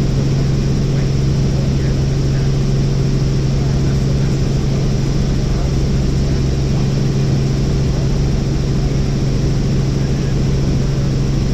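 Helicopter in flight heard from inside the cabin: a loud, steady drone of rotor and engine with a strong low hum that does not change.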